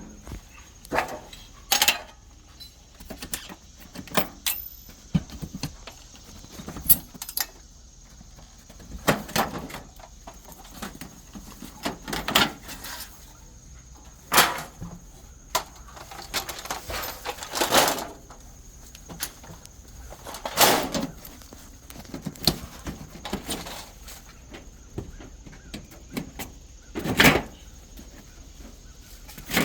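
Vinyl siding being handled and worked loose by hand: irregular plastic clacks, knocks and short scrapes, with a faint steady high-pitched tone underneath.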